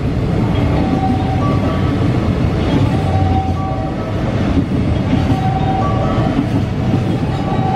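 Freight train passing with a steady heavy rumble of wagons and wheels on rail. Faint clacks and short ringing tones recur about once a second.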